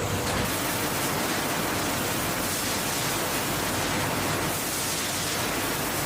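Steady, even rushing noise of food-factory processing-line ambience, with no beat or distinct tones.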